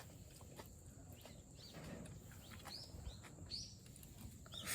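Faint bird chirps: about six short, quick arching notes scattered through a few seconds, over a steady thin high-pitched tone.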